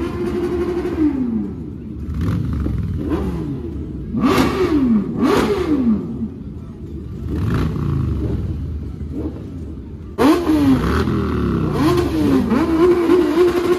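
Several motorcycle engines being revved in repeated blips, their pitch rising and falling and overlapping. About ten seconds in they get suddenly louder, and one engine is held at high revs near the end.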